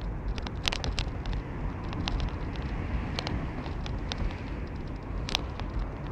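Car on the move: steady low road and engine rumble, with frequent irregular clicks and rattles.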